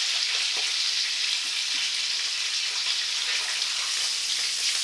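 Salmon frames sizzling in a frying pan, a steady hiss.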